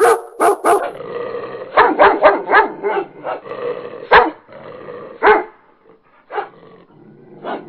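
Dog barking repeatedly: a quick run of barks near the start, a faster flurry around two seconds in, then single barks spaced out.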